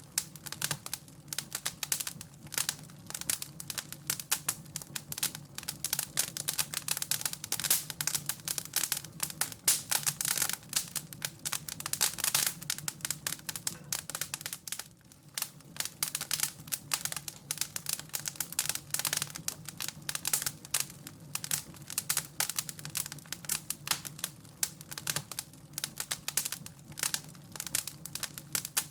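Wood fire crackling, with dense irregular snaps and pops over a low steady hum.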